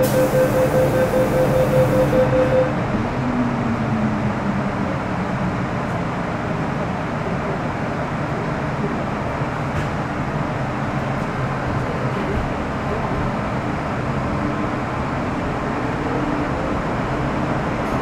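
Steady rumble inside an MTR Metro Cammell M-Train electric multiple unit, whose traction is controlled by a GEC GTO chopper. A fast pulsing beep runs for the first couple of seconds and then stops, and a faint rising whine comes in near the end.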